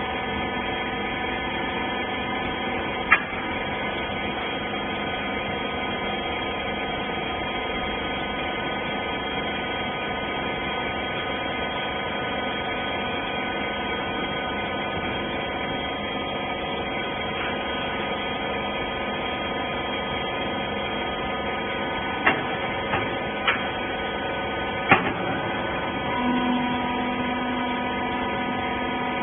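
Small hydraulic rag baler's power unit running with a steady hum, with a sharp click about three seconds in and a few more clicks or knocks near the end.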